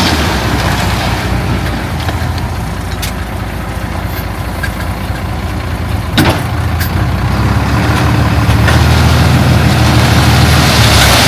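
Heavy diesel earthmoving engine running steadily, dropping a little and then picking up again in the second half. A sharp metallic knock comes about six seconds in, with a few fainter clicks.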